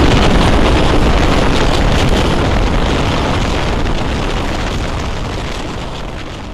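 Rumble of a train running at speed behind a Class 31 diesel locomotive, heard from an open carriage window, with wind buffeting the microphone. The sound fades steadily down towards the end.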